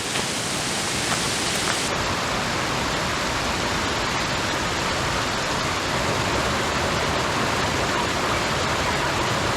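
Steady rushing of a mountain stream's flowing water, an even hiss with no pauses.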